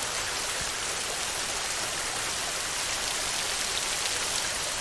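Steady rain: an even hiss with faint individual drops ticking through it.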